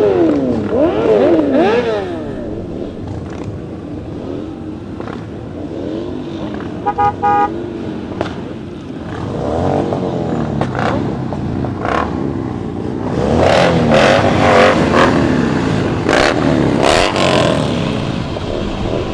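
Motorcycles of a group ride running and revving, their engine pitch rising and falling, with a short pulsed vehicle horn toot about seven seconds in.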